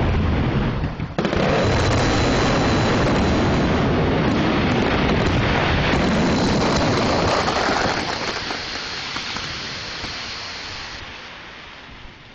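A sudden, very loud blast-like roar, too loud for the microphone, with a brief dip about a second in. It holds for about eight seconds, then dies away over the last few seconds.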